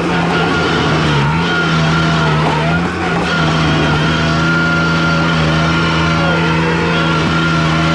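Skid steer loader's engine running hard and steady, its pitch sagging briefly about a second in as it takes load, with a steady high whine above it.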